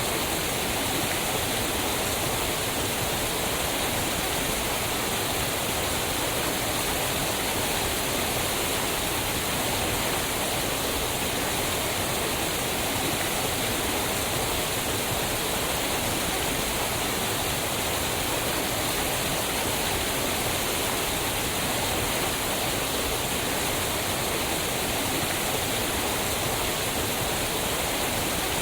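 Waterfall: water falling and rushing over rocks in a steady, unbroken rush with no pauses or changes.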